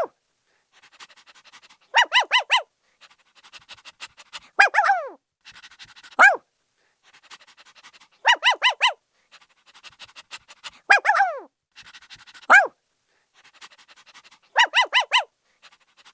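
Small dog yipping in quick sets of four high-pitched yelps, alternating with whines that fall in pitch, with quick panting in between. The same pattern repeats at regular intervals.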